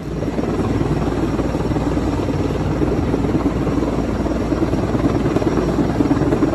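Helicopter rotor and engine running steadily at close range, a dense fast chopping noise as it hovers with an underslung load.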